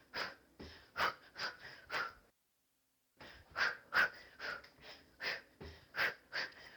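Hard, rhythmic exhaled breaths during a kickboxing punch-and-knee drill, a short sharp puff about two or three times a second. The sound cuts out completely for about a second a third of the way in.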